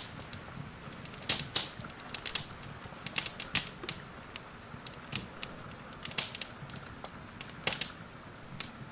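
Wood fire crackling in a fireplace: irregular sharp pops and snaps, some in quick clusters, over a soft steady hiss of rain.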